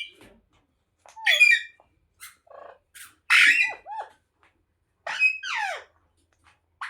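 Pet ringneck parrot squawking and chattering: a string of about five short calls, some sliding down in pitch, the longest and loudest just past the middle.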